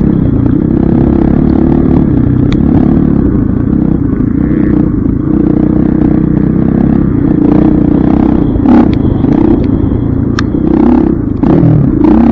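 Dirt bike engine running at a fairly steady pitch, with a few sharp clicks and knocks about nine and ten and a half seconds in.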